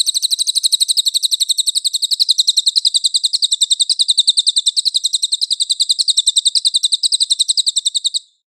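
A songbird's rapid, high trill of short repeated notes, about ten a second, held steady for several seconds and cut off abruptly about eight seconds in. It is recorded song material of the kind used to train cage birds.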